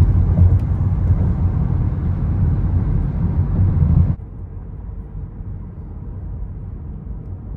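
Road and engine noise inside a moving car. It drops suddenly to a quieter, duller hum about four seconds in.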